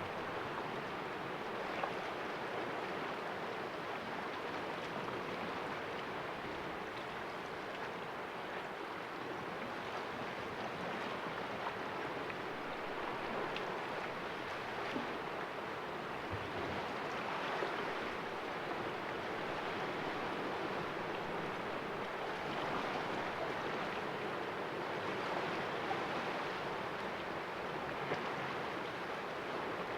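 Small sea waves splashing in a calm rocky cove: a steady wash of water that swells gently now and then.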